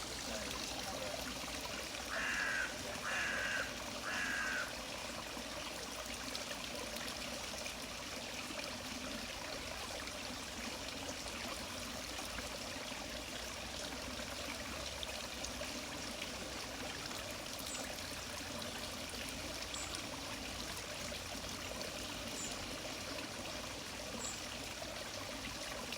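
Water trickling and splashing down a garden cascade of small waterfall steps, a steady running sound. A bird calls three times in quick succession about two to four seconds in.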